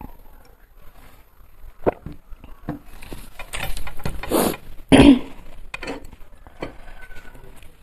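Close-up eating sounds: a few clicks and smacks, then a stretch of crunching and chewing, with one loud, sharp sound about five seconds in.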